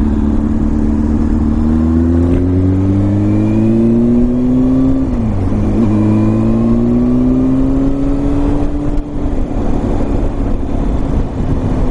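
Honda CBR600F4's inline-four engine pulling under acceleration, its pitch rising slowly, dropping sharply at a gear change about five seconds in, then climbing again and settling to a steady cruise.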